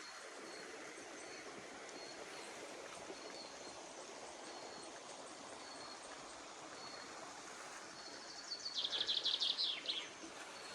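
Birds singing outdoors over a steady rush of running water. A short, high note repeats evenly, and near the end a loud, rapid trill of about a dozen notes drops in pitch as it finishes.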